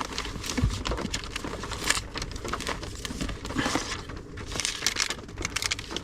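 Rustling and crinkling of paper stationery being handled and sorted, with irregular small clicks and taps throughout.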